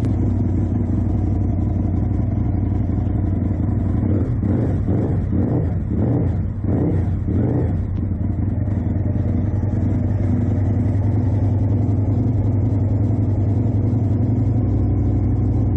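Aprilia RSV1000R's 998 cc 60-degree V-twin engine idling steadily, with a few seconds of quick rhythmic pulsing about four seconds in.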